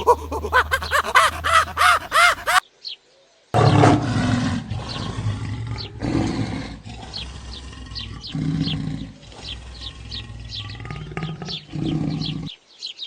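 Animal calls from two different recordings. A fast run of short calls, each rising and falling in pitch at about five a second, stops abruptly. After a second's silence comes a run of low, drawn-out calls in groups every second or two, with small birds chirping over them.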